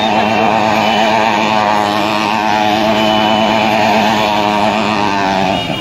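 Motorcycle engine held at high revs while the bike, laid on its side, spins on the road in a stunt; the engine's pitch wavers steadily up and down.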